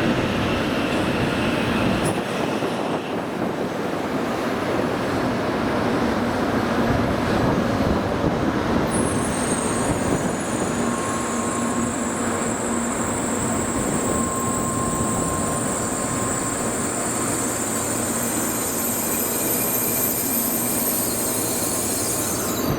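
A Shinkansen train running along the platform with a loud, steady rush of wheel and running noise. A high-pitched wheel squeal joins in about nine seconds in and holds to the end.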